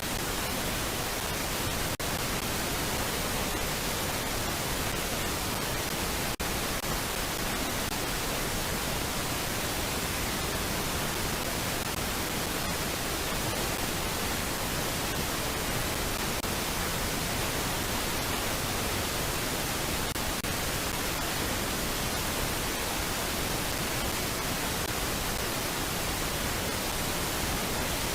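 Steady hiss of static from a nest camera's audio feed, with two brief dropouts early on and no bird calls.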